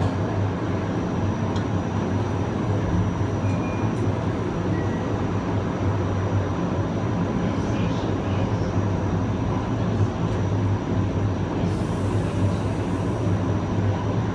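Kawasaki M9 electric multiple unit heard from on board, running with a steady low rumble and faint steady tones from its traction equipment, the pitch neither rising nor falling.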